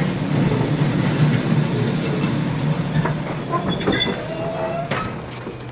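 Jomo Electric Railway 700 series (ex-Keio 3000 series) train heard from inside the car: a steady low running rumble of wheels on rail, with a few clicks. Brief high wheel squeals come about four seconds in, and the running noise drops near the end.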